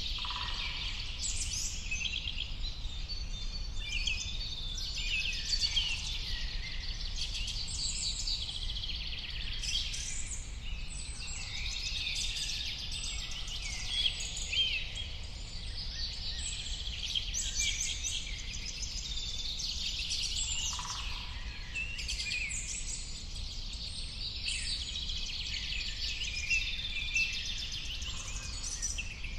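A dense chorus of many birds chirping and trilling, calls overlapping without a break, over a steady low rumble.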